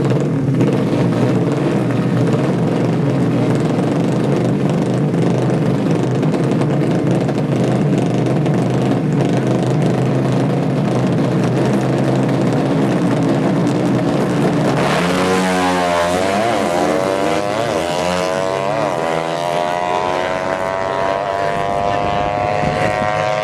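Four-stroke 200cc underbone drag bike engines running steadily, then about fifteen seconds in one accelerates hard, its pitch climbing in steps with short dips between them.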